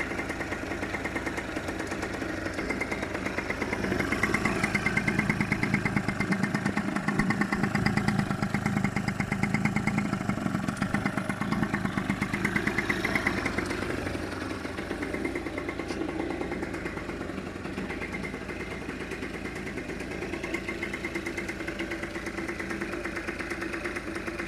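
MBK Booster scooter's two-stroke single-cylinder engine running on a freshly fitted new cylinder and piston, idling steadily. It picks up and runs louder for several seconds early on, then settles back to idle.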